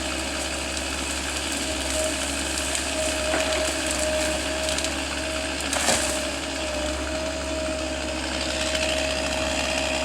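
Power equipment cutting or grinding wood: a steady machine drone holding one constant pitch, with a few sharp cracks, the loudest about six seconds in.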